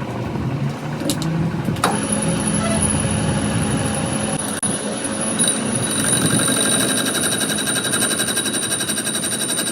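A machine running steadily, with a fast even pulsing and a high whine that set in about two seconds in after a sharp click.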